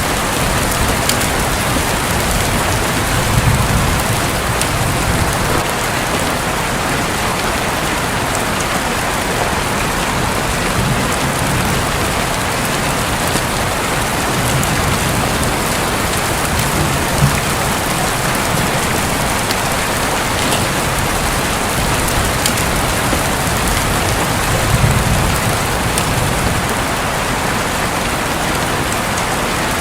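Steady heavy rain drumming on a roof, with low rumbles of thunder swelling briefly about four seconds in and again near the end.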